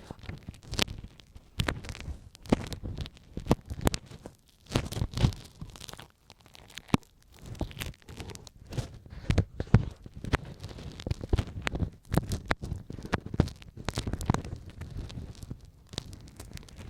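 An ear pick scraping and clicking inside an ear held close to the microphone, in quick, irregular strokes with brief pauses.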